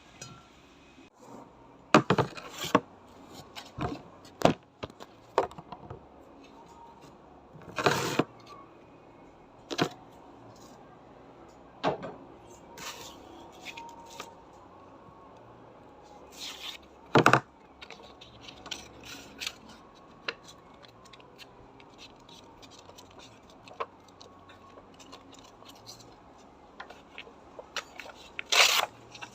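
Irregular clicks, clinks and knocks of small metal parts and tools being handled during restoration work on a bayonet scabbard, a few of them sharper and louder, with quiet gaps between.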